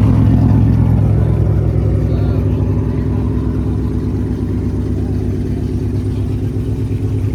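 Car engine idling steadily with a deep, pulsing rumble.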